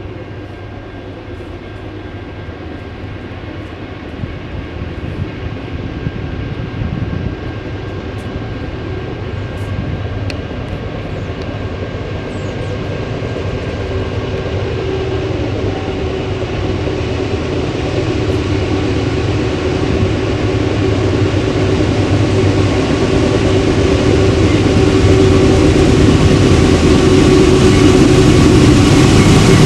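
A diesel-hauled train approaching, its engine drone and rumble growing steadily louder as it nears.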